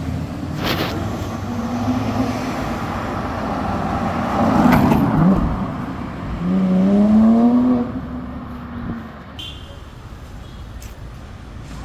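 Cars driving past on the street: one goes by loudly about five seconds in, then a car engine revs up, its pitch rising for about a second and a half before it fades away.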